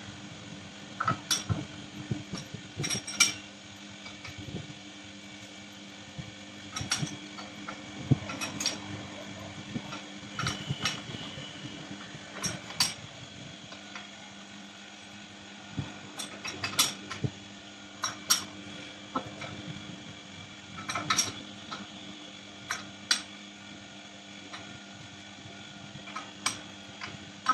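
Metal lathe running with a steady hum, overlaid by irregular sharp metallic clicks and clinks every second or two.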